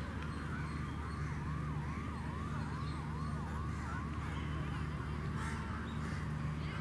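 A bird calling a fast run of short notes that each rise and fall, about three a second, stopping about four seconds in, over a steady low hum.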